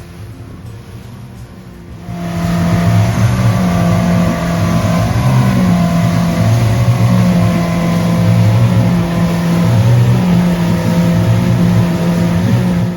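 A boat's outboard motor running steadily at speed, a drone holding near one pitch with slight wavers. It starts abruptly about two seconds in and cuts off suddenly near the end.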